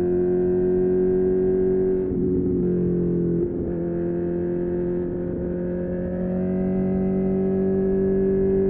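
Honda CB1000R's inline-four engine through an Akrapovic exhaust, pulling under load with its pitch slowly rising. About two seconds in the note changes and drops back briefly, then the engine pulls again, rising steadily toward the end.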